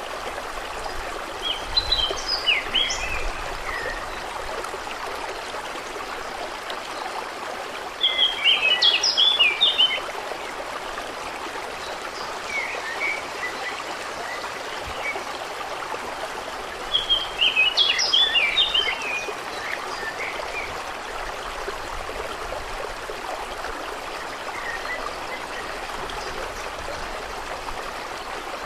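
Steady running, trickling water with a songbird singing short, quick phrases three times, about every eight seconds, and softer chirps in between.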